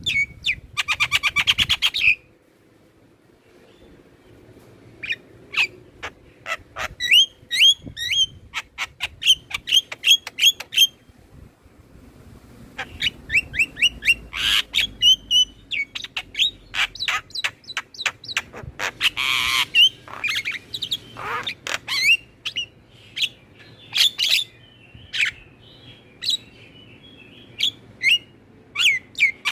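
Javan mynas (jalak kebo) chattering: fast runs of sharp whistles and chirps, broken by harsh rasping squawks near the start and again about two-thirds of the way through, with a pause of a few seconds early on.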